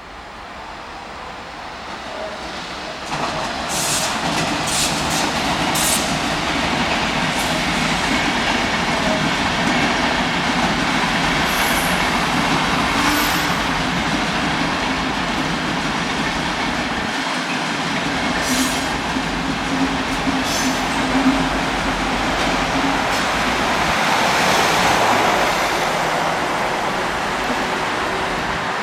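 A train passing at close range: a steady rolling rumble of wheels on rail that builds over the first few seconds and then holds, with scattered short, sharp high-pitched sounds from the wheels.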